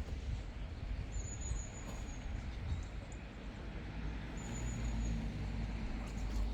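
Outdoor background noise: an uneven low rumble with a steady hiss, and two brief high thin whistles, one about a second in and one about four seconds in.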